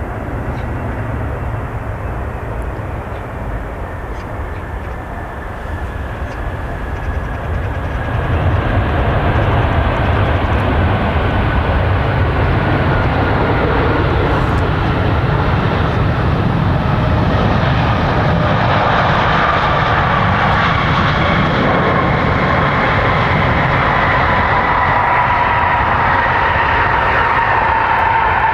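Airbus A380 jet engines on a landing: a steady roar that grows louder about eight seconds in, with a whine sliding slowly down in pitch.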